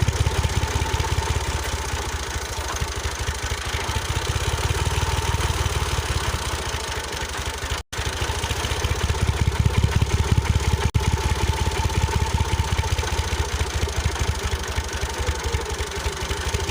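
Small electric motor of a homemade miniature tractor-and-chaff-cutter model running, with a fast, even rattle and a faint steady whine. It drops out for an instant about eight seconds in.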